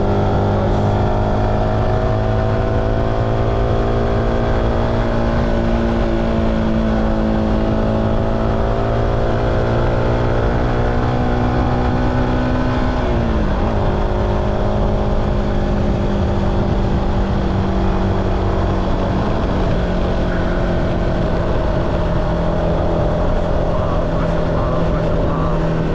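Car engine running steadily. Its pitch dips sharply about halfway through, then holds at a slightly lower note.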